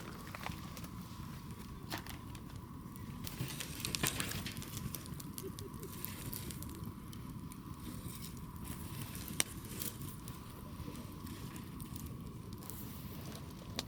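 Wood campfire crackling and popping in scattered sharp snaps, over a steady low rumble.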